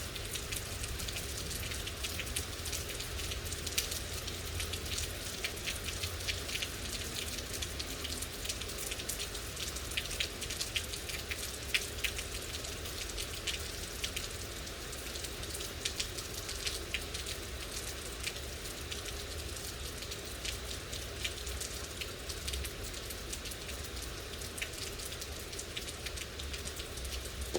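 Steady rain falling, with many individual drops ticking on a surface over a continuous hiss and a low rumble underneath.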